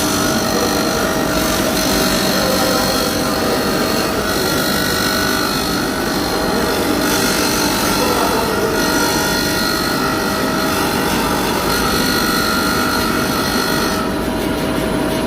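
Power tool running steadily under load, grinding or sanding a knife blade in a knife workshop, with a rasping, rubbing noise over a steady tone. About fourteen seconds in, the high hiss drops away.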